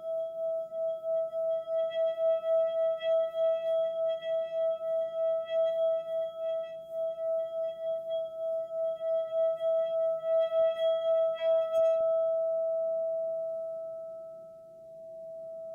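Singing bowl ringing in a sustained, pulsing tone with a wavering beat about three times a second. About three-quarters of the way through, the higher overtones drop away and a smoother single tone carries on.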